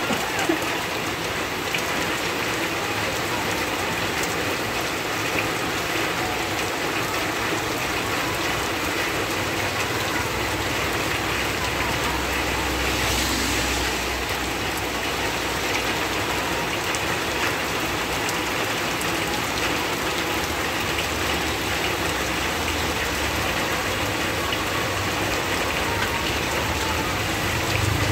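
Heavy rain falling steadily on a road and ground. A motorcycle passes on the wet road about halfway through, and another comes by near the end; each adds a low engine rumble.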